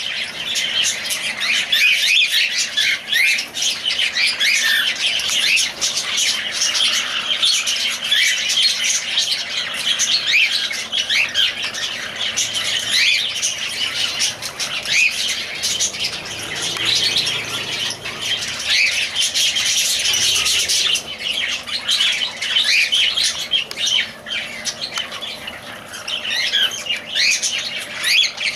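A group of small pet parrots (love birds) chirping and squawking nonstop, with many short, high calls overlapping.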